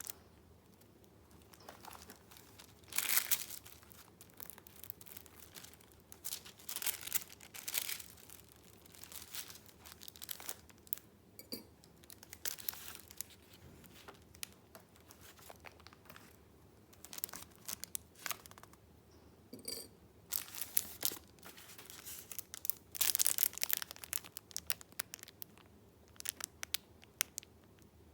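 Paper rustling and crinkling in irregular bursts as paper sheets and items are handled, with a louder cluster about three seconds in and a busier, louder stretch near the end.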